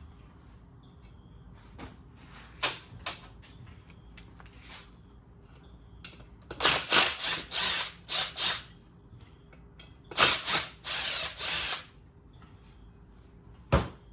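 A ratchet wrench working bolts on an engine's fuel rail, in two runs of rapid clicking after a few single clicks, with a sharp knock near the end.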